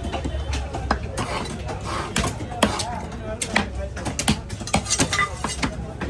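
Knife cutting fish on a cutting board: irregular sharp knocks and clicks of the blade striking the board, several a second at times.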